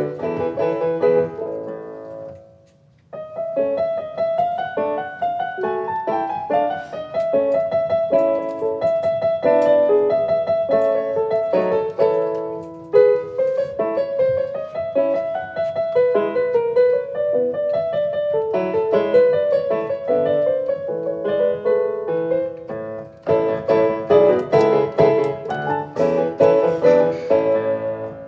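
Background piano music: a melody of single notes over chords, with a brief pause about three seconds in.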